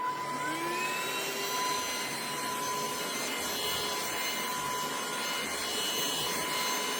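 Trucozie cordless stick vacuum switched on: its motor whines up to speed in the first second, then runs steadily.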